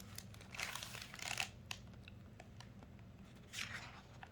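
Faint papery rustling of a picture book's pages being turned and handled, in two stretches about half a second in and near the end, with a few light clicks between.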